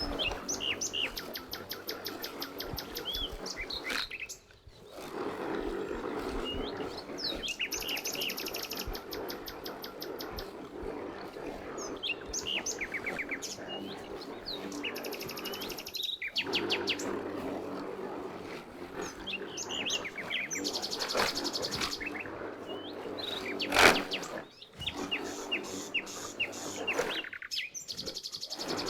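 Songbirds chirping and singing in quick repeated trills over a steady low background noise, with a single sharp click about three-quarters of the way through. The sound drops out briefly a few times.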